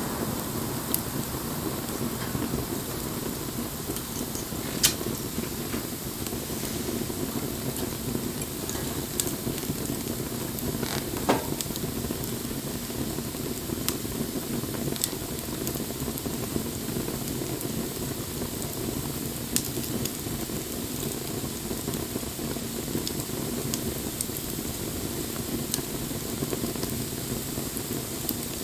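Campfire burning: a steady hiss with sharp crackles and pops every few seconds, two of them louder, about five and eleven seconds in.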